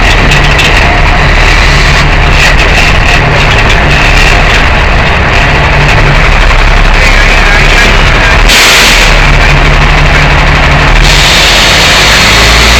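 Tow truck engine running, loud and distorted, with music playing over it. About eight and a half seconds in, a loud hiss lasts for a couple of seconds.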